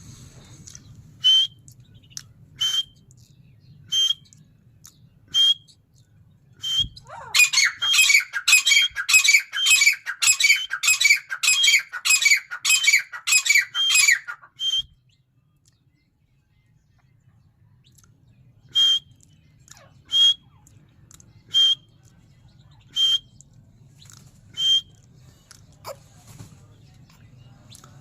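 A bird calling: sharp single calls about every second and a half, broken by a run of loud, harsh, rapidly repeated calls lasting about seven seconds before the single calls resume.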